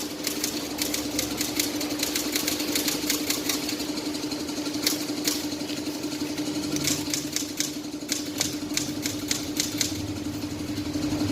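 A small motorcycle engine running steadily at idle, with irregular sharp clicks over it.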